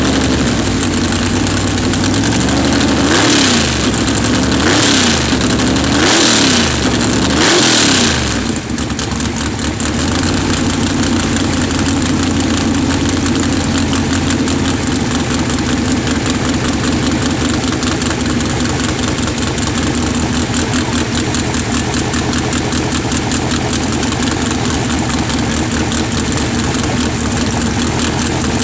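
Drag race car engine on open exhaust, blipped four times in quick succession from about three seconds in, each rev rising and falling, then settling into a steady idle.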